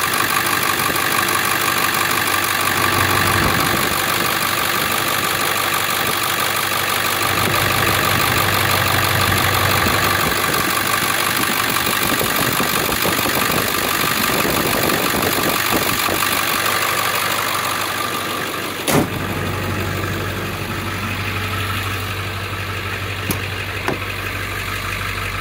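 1999 Ford F-250's 7.3L Power Stroke V8 turbo diesel idling steadily, still warming up after a cold start. A single thump comes about three-quarters of the way through, after which the engine sounds duller and lower. Two light clicks follow near the end.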